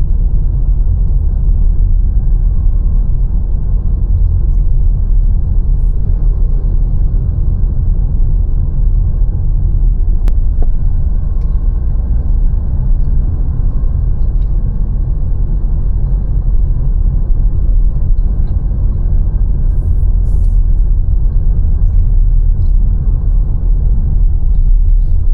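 Steady low rumble of wind and road noise on the microphone of a bicycle riding through city traffic, with a few faint ticks.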